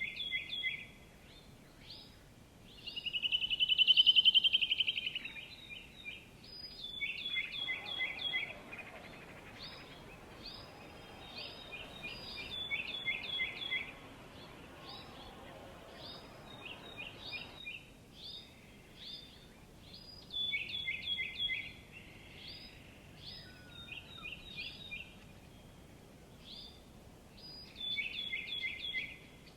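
Small songbirds chirping: quick series of short high chirps repeated throughout, with one loud, rapid trill about three seconds in.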